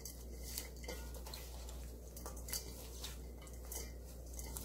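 Faint scattered clicks and light taps of kitchenware while the seasoned garlic chives are handled, over a low steady hum.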